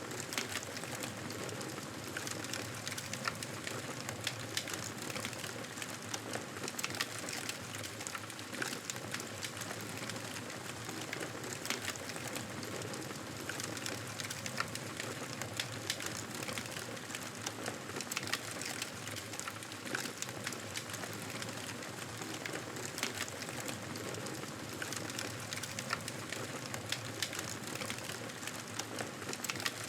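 Wood fire crackling in a fireplace: a steady hiss with frequent small irregular pops and snaps throughout.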